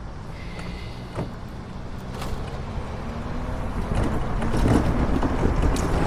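Wind buffeting the microphone over road rumble while riding along a street, getting louder about two-thirds of the way through.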